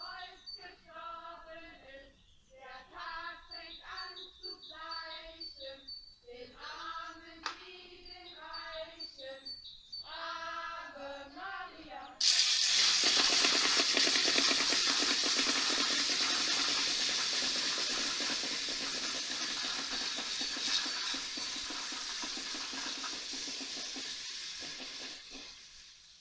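Voices chanting a rhymed verse together, then about halfway through a loud, dense, continuous clatter of many wooden Holy Week rattles (Kläpper/Ratschen) worked at once, easing slightly near the end. It is the rattling that stands in for the church bells, silent on the days before Easter.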